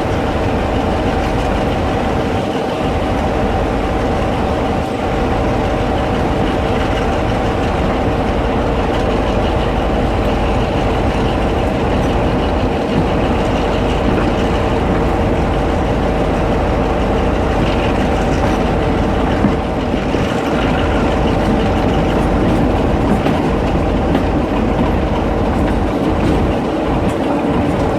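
Train running on the line: a steady, loud rumble with two constant whining tones held over it.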